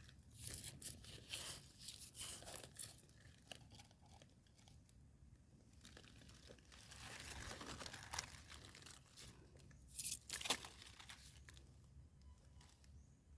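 Crunching, tearing and rustling as termite mushrooms are picked and handled among dry leaf litter, with two louder cracks about ten seconds in.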